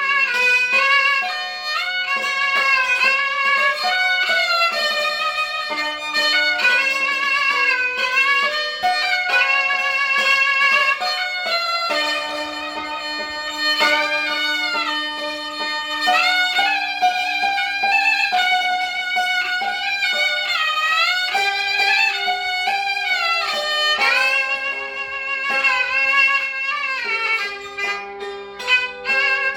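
A gaohu, the high-pitched Cantonese two-string fiddle, bows a melody full of slides and vibrato over a yangqin hammered-dulcimer accompaniment.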